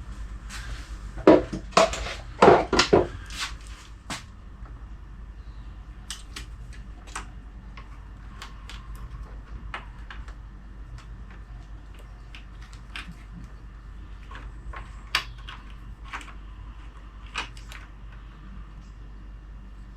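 Clunks and clicks of a motorcycle battery tray and battery being handled and fitted: several loud knocks in the first three seconds, then lighter scattered clicks and taps.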